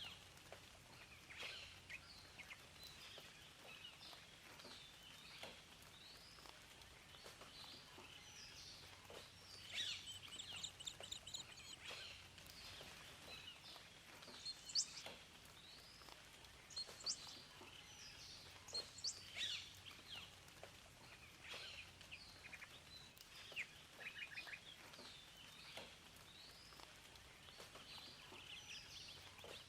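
Several songbirds chirping and singing, many short calls and quick trills overlapping, over a faint steady hiss.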